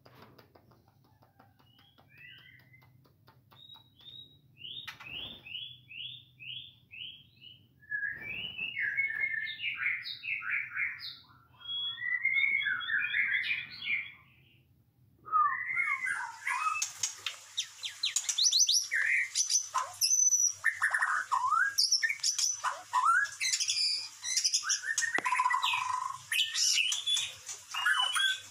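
White-rumped shama singing. The first half is short phrases of quick repeated notes and glides with gaps between them. From about halfway it breaks into a loud, dense run of varied whistles, trills and rapid notes.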